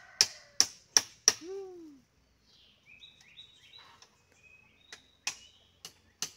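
A series of sharp knocks, about two to three a second, stops after about a second and a half; birds then chirp in short high stepped notes for about a second, and the knocks start again near the end.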